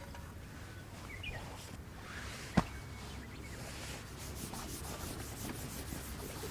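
A knife blade rubbing in a rapid series of short strokes, with one sharp click about two and a half seconds in.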